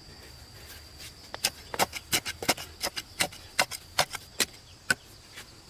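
A quick, irregular series of sharp knocks and taps, a few a second, starting about a second in, over a steady high insect whine.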